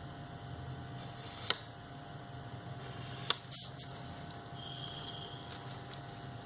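Pencil and paper handled on a tabletop while marking around paper strips: two sharp taps, about one and a half and three and a half seconds in, over a steady low hum. A faint high tone sounds for about a second past the middle.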